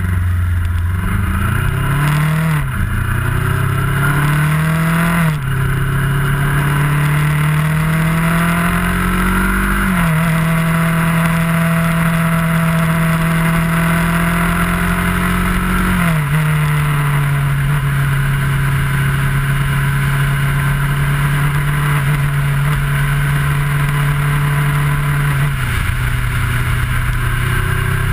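Kawasaki ER-6f's parallel-twin engine under way, its note climbing and then dropping sharply at upshifts three times in the first ten seconds, then holding a steady cruising note with two drops to a lower note later on, over wind rush.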